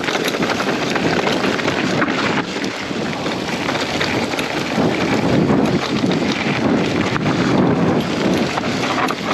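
Strong wind buffeting the microphone of a mountain bike rider moving fast down a dirt trail, with the tyres rattling and crunching over rough ground as a constant stream of small clicks.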